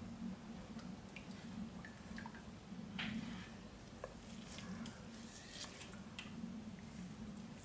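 Thick soap paste being stirred by hand in a crock pot: soft wet squelches and small scattered clicks, over a faint low steady hum.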